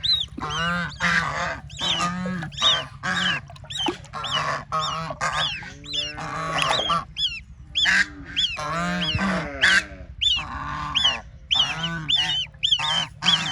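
A group of ducklings and ducks calling continuously: rapid high, arching peeps overlaid with lower, harsher honk-like calls.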